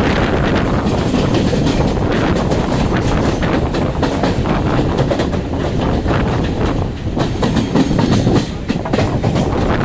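Electric multiple unit (EMU) suburban train running between stations, heard from inside the coach: a steady rumble of wheels on the track with repeated clacks over the rail joints.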